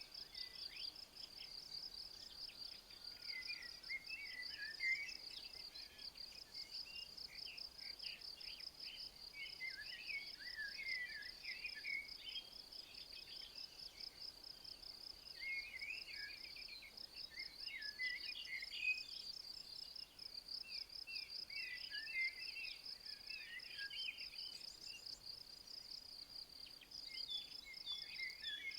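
An insect trilling steadily in a fast, even pulse, with a songbird singing short twittering phrases every few seconds over it.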